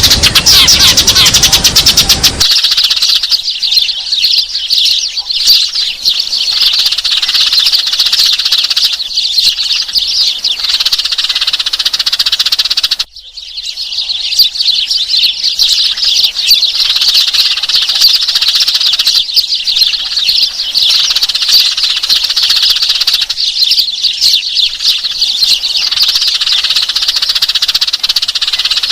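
Sparrows chirping rapidly and without pause, a dense stream of high chirps used as a trapping lure call. A loud rushing noise underlies the first two seconds or so, and the chirping cuts out briefly about 13 seconds in.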